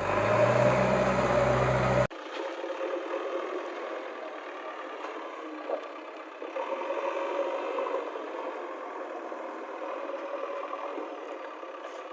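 Small motor and gears whirring and rattling, as in a toy vehicle. A fuller, lower-pitched running sound cuts off abruptly about two seconds in, and a thinner steady whir continues.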